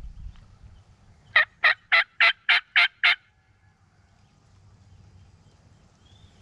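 A series of seven loud, evenly spaced turkey yelps, about four a second, lasting under two seconds a little after the start: a hen-style yelp sequence of the kind used to bring a gobbler in.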